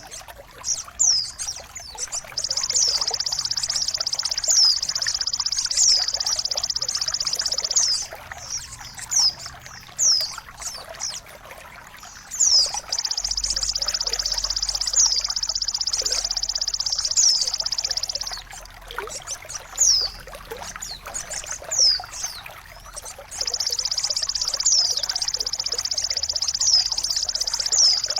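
Songbird song for tutoring caged birds: many short high chirps that sweep downward, and three long, high, rapid buzzing trills of about five and a half seconds each, starting about two, thirteen and twenty-three seconds in. Trickling water runs beneath throughout.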